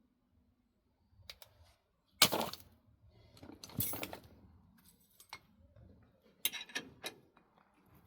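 Metal tools and parts being handled: a sharp metallic knock about two seconds in, a short rattle, then a few quick clicks and clinks near the end.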